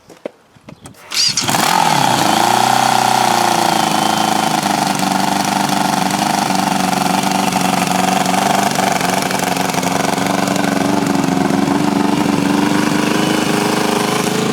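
Yamaha motorcycle engine starting about a second in, its revs dipping and rising briefly before it settles into steady running.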